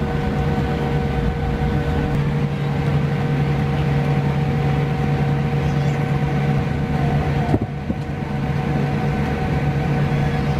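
Economy cabin noise of a Boeing 787-8 on the ground just after landing: a steady low rumble with a few constant humming tones from the aircraft's systems and engines, and one brief knock about seven and a half seconds in.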